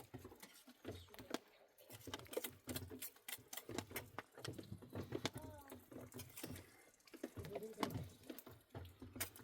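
Scattered faint clicks and knocks, with low voices now and then.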